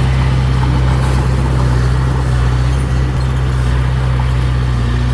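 Diesel engine of heavy earthmoving equipment running steadily, a low, even drone.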